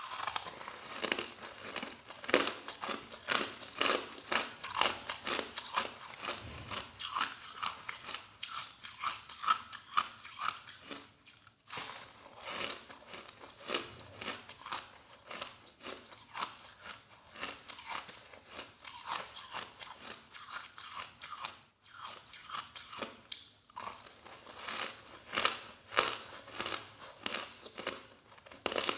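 Crushed soft ice being chewed: a dense, steady run of rapid crunches, pausing briefly twice.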